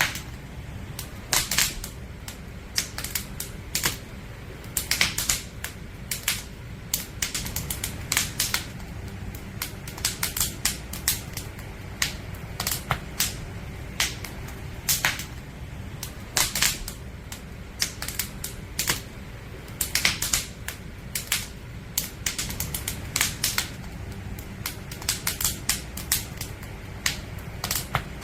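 Firewood burning in a campfire, crackling with irregular sharp pops and snaps, several a second, over a low steady rumble.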